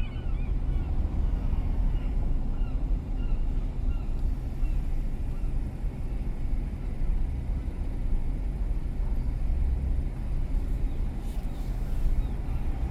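Steady low rumble of a car driving: engine and tyre noise on the road. Faint repeated chirping tones sound in the first few seconds and fade away.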